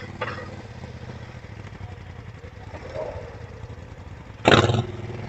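Four-wheeler (ATV) engine idling steadily, with a loud, short burst of noise about four and a half seconds in.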